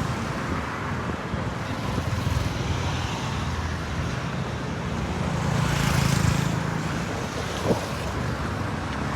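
Road traffic going by, with one vehicle passing louder a little past halfway and a single short knock near the end.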